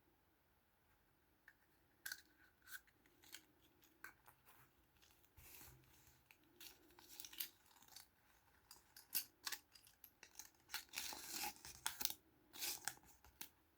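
Small plastic toys and their packaging being handled and opened by hand: scattered crisp clicks and crinkling rustles, thickening into a denser crackle near the end.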